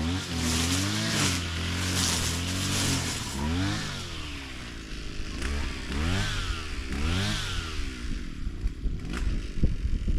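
Small petrol engine running, steady at first, then revved up and down about once a second several times, with a few sharp clicks near the end.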